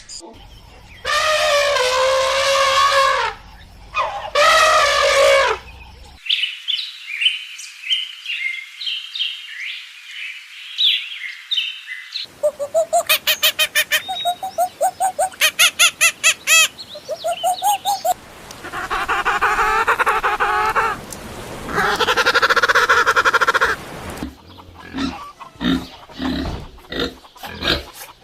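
A string of separate animal calls, one after another: two long wavering calls, then several seconds of high bird chirping, then fast repeated calls, two more long calls, and finally a run of short rapid pulses.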